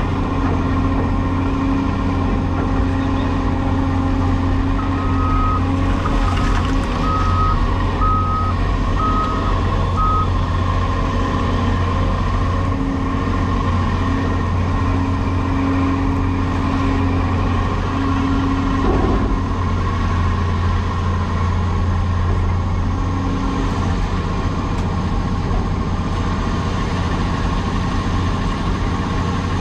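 Cat 336E hydraulic excavator's diesel engine running steadily under load. A backup alarm beeps about once a second for six beeps, starting about five seconds in.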